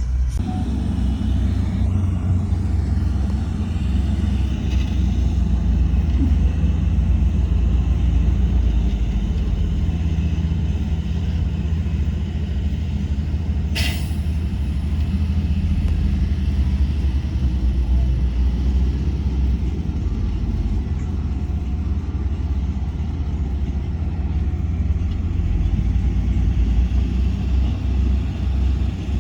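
Heavy diesel earthmoving machinery running steadily with a deep engine rumble, with a single short sharp sound about halfway through.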